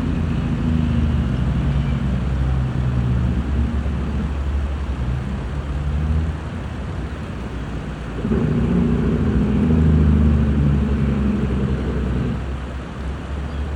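An engine running steadily, its low hum louder in two stretches with a lull in between.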